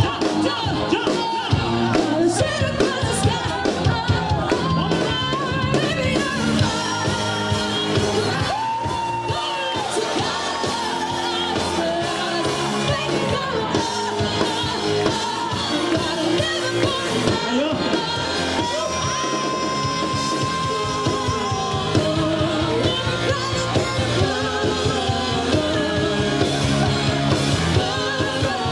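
Live band playing a pop-rock song with a woman singing lead, including a couple of long held notes.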